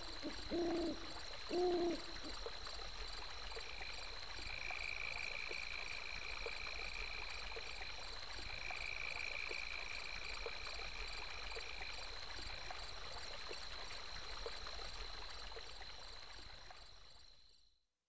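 Night ambience: a steady high cricket trill over a faint stream rush. Two short, low hoot-like calls come about a second apart near the start. A second, lower trill runs from about four seconds in to about twelve seconds in, and everything fades out near the end.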